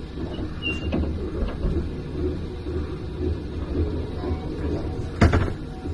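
Low rumble of a passenger train carriage rolling slowly, heard from inside. A short high beep comes about half a second in, and a brief sharp clatter near the end.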